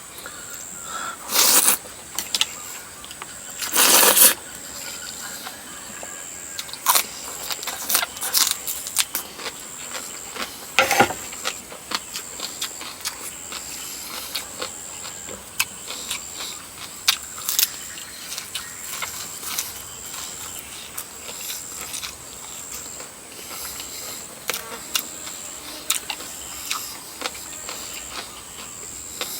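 Close-up eating sounds of chicken feet and rice noodles in curry being chewed and sucked, with many scattered small clicks and two short, louder noisy bursts in the first few seconds.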